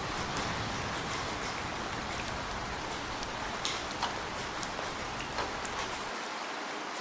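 Steady heavy rain hissing, with scattered sharp ticks of single drops striking close by. A low thunder rumble dies away under it and is gone about six seconds in.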